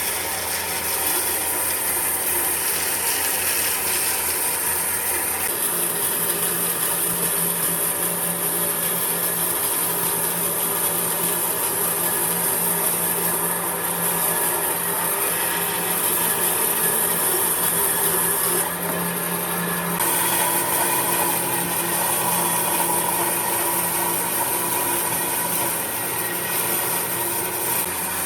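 A power tool working on wood, a continuous rubbing, abrasive noise, whose character changes abruptly a few times.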